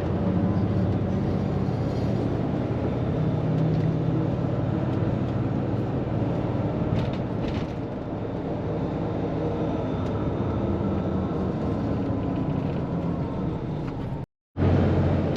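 Steady engine and road rumble heard inside a moving tour bus. The sound cuts out for a moment near the end.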